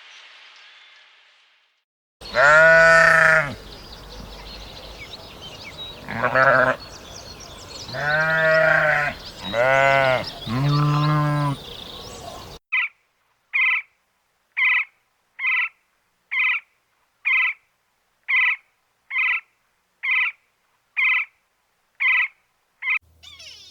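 A sheep or goat bleating five times, with long, wavering calls. This is followed by a run of about thirteen short identical calls, evenly spaced a little under a second apart.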